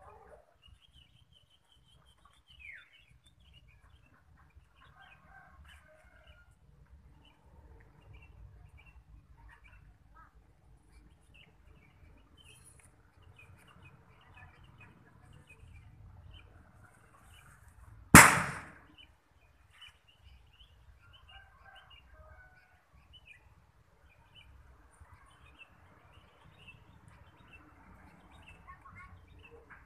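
Faint scattered bird chirps, with one loud sharp bang about eighteen seconds in that rings briefly before dying away.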